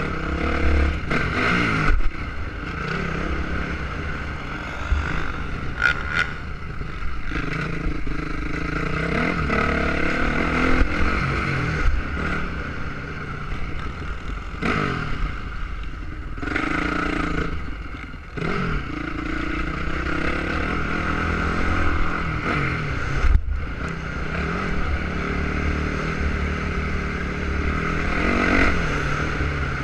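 Motocross dirt bike engine revving hard and easing off again and again, its pitch rising and falling with throttle and gear changes, over a steady low rumble.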